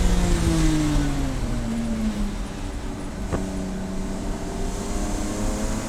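Race car engine with its revs falling as the car slows, then holding a lower steady note with one sharp click about three seconds in, and starting to climb again near the end.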